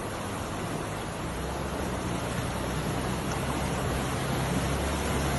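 Rushing river water, with the low steady drone of a Toyota Tacoma pickup's engine coming in about a second in and growing louder as the truck works through the crossing.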